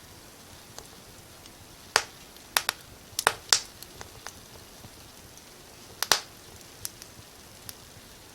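Wood fire crackling: sharp, irregular pops over a faint, steady hiss. The pops come in clusters about two to three and a half seconds in and again about six seconds in, with a few softer ones between.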